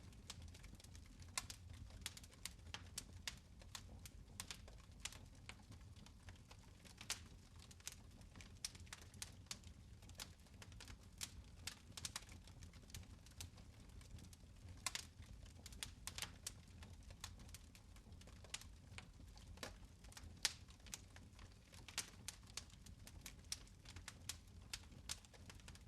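Fireplace fire crackling: faint, irregular sharp pops and snaps, several a second, a few louder than the rest, over a low steady hum.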